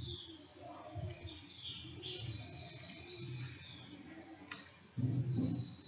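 Birds chirping, with runs of short, quickly repeated high notes about two seconds in and again near the end.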